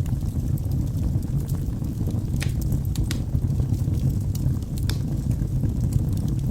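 Wood fire burning in a fireplace: a steady low rush of flame with scattered sharp crackles and pops of burning logs, a few louder pops near the middle.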